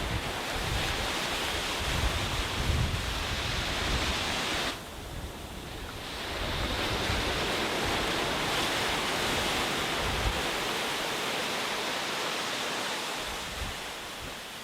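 Sea waves washing onto a beach, with wind buffeting the microphone in low rumbles. The surf drops away abruptly about five seconds in, then swells back up.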